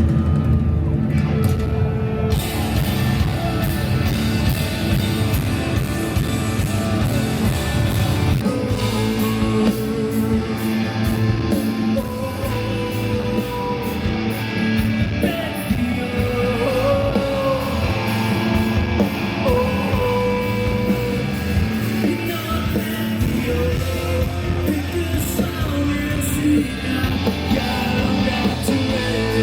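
Live rock band playing: electric guitars and drums with a sung lead vocal.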